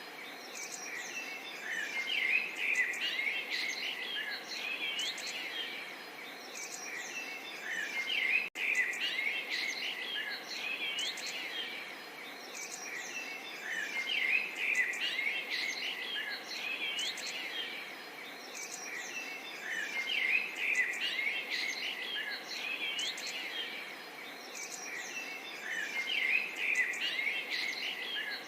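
Many small birds chirping and twittering together in a dense chorus that swells every six seconds or so, over a steady hiss, with a split-second dropout about eight seconds in.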